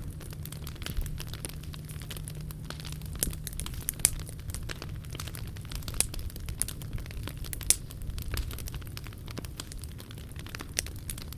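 Wood fire burning in a POMOLY T-Brick Ultra firebox, crackling with scattered sharp pops over a low rumble; the loudest pops come about four seconds in and near eight seconds.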